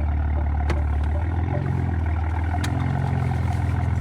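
Tuned BMW M4's twin-turbo inline-six idling steadily; about a second in, its low note shifts up a step and holds there. A couple of faint clicks sit over it.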